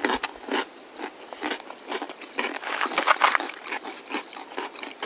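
Close-up eating sounds of people eating jjajang noodles: irregular chewing and crunching with quick clicks and short smacks, over and over.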